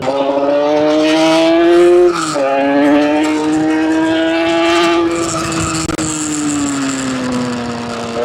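Yamaha RD350LC two-stroke parallel-twin engine in a Cagiva Mito, revving high and loud. Its pitch climbs, drops sharply about two seconds in, climbs again and holds high, then falls away over the last few seconds.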